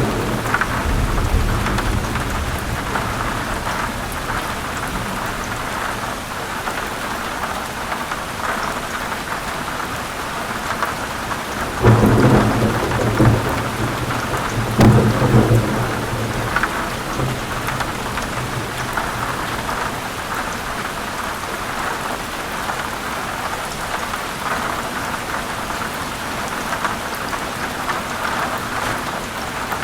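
Heavy rain falling steadily, with two loud low rolls of thunder, the first about twelve seconds in and the second about three seconds later.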